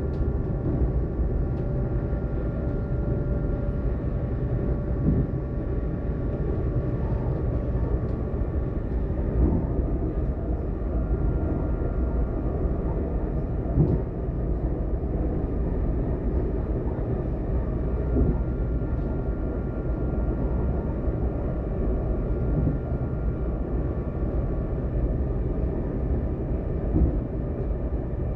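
DB class ET422 electric multiple unit running, heard from inside the train: a steady low rumble with faint whining tones that fade in and out, and an occasional single knock every few seconds.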